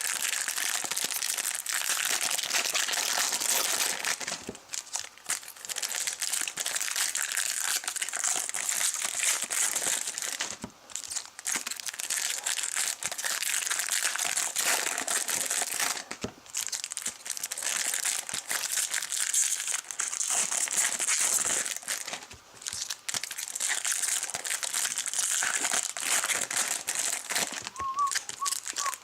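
Trading card pack wrappers being torn open and crinkled by hand, a steady rustling broken by a few short pauses between packs.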